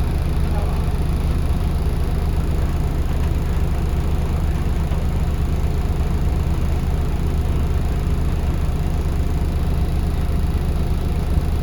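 Scania L94UB bus engine heard from inside the cabin, running at a steady, unchanging low hum with no revving.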